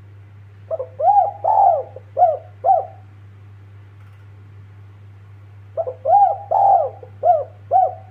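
Spotted dove (tekukur) cooing: two phrases of about five arched coo notes each, the first about a second in and the second near the end.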